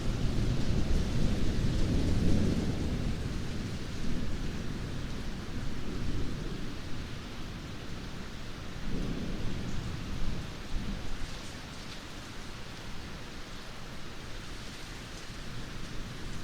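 Steady rain falling, with a low rumble that fades over the first few seconds and comes back more softly about nine seconds in.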